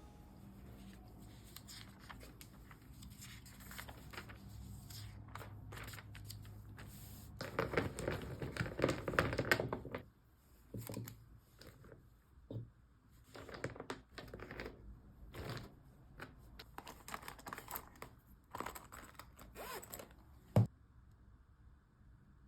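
Close-up paper handling on a planner page: scratchy rustling and tearing-like sounds with small clicks, busiest about eight to ten seconds in, then scattered bits and one sharp click near the end.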